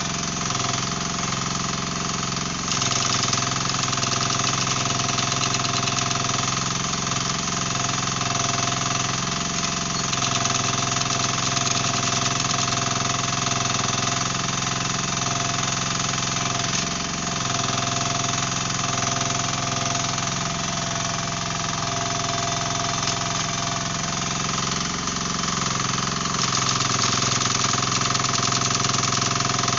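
Mini excavator's engine running steadily, with the rapid hammering of its hydraulic breaker chipping concrete. The hammering gets louder about three seconds in and again near the end.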